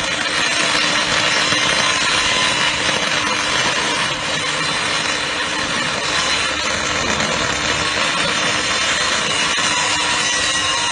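MIG welding arc crackling and sizzling steadily for several seconds, with a steady hum running underneath.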